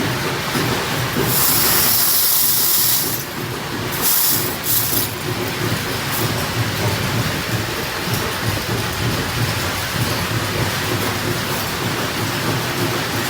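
Factory machinery running with a steady rumbling clatter, with loud hissing from about a second in to about three seconds, and a shorter burst of hiss around four seconds.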